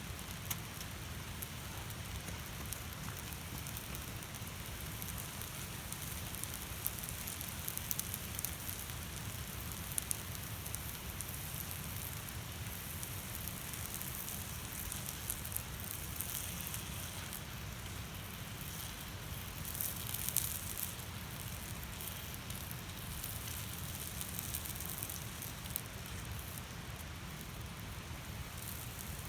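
Steady hissing noise with many small crackles and ticks scattered through it, a few louder clusters among them.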